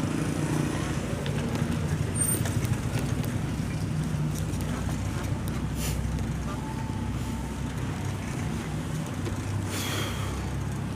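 Steady low rumble of road traffic heard from a moving bicycle, with a short hiss about six seconds in and another near ten seconds.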